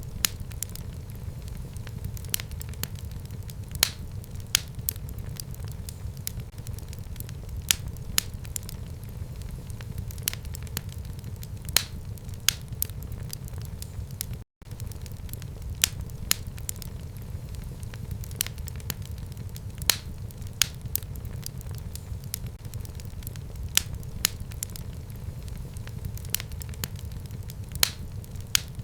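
Fire burning in a home fireplace: a steady low rumble with frequent sharp crackles and pops at irregular intervals. A split-second dropout to silence comes about halfway through.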